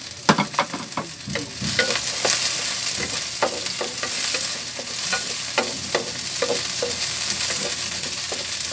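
Ginger, garlic and onion sizzling in hot oil in a wok, stirred with a wooden spatula that knocks against the pan. A few sharp knocks come first, then the sizzle swells up about one and a half seconds in and holds steady, with occasional spatula knocks through it.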